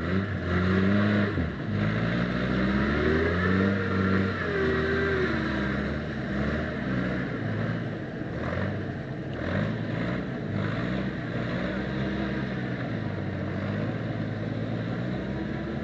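Vehicle engine revving up and down under load while pulling a car out of a snowy ditch. It revs highest in the first few seconds, then settles lower and steadier, and picks up again near the end.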